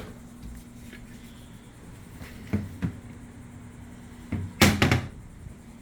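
Kitchen cabinet doors without knobs being pulled open and shut: two light knocks about two and a half seconds in, then a louder clatter near the end, over a steady low hum.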